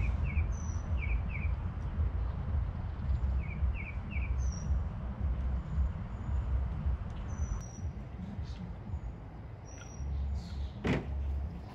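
Small birds chirping: quick runs of three short chirps and thin high whistles, over a steady low rumble. One sharp knock comes near the end.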